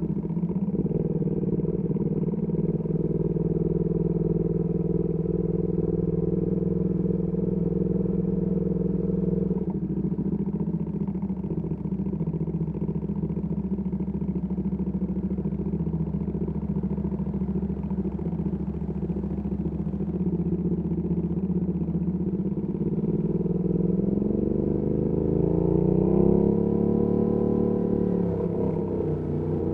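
Ducati Panigale V2S V-twin engine through a Termignoni exhaust, running at a steady engine speed for most of the time. Over the last several seconds the revs climb and drop a few times as the bike accelerates and shifts gear.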